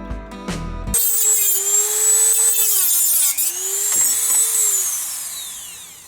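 Music ends about a second in. Then a Dremel 3000 rotary tool with a cut-off wheel whines at high speed while cutting an aluminum weld, its pitch dipping under load, and it winds down near the end.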